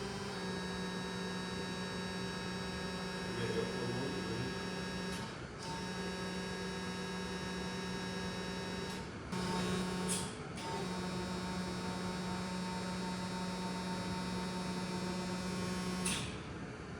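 Electric truck's motor giving a steady electric hum with a faint high whine above it, cutting out or changing briefly about five, nine and ten seconds in and again near the end.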